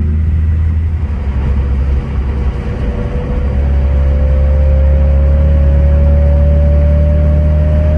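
BMW M3 driving, heard from inside the cabin: a steady low engine drone with road noise. It eases off briefly about a second in, then a faint whine rises slowly in pitch as the car gently picks up speed.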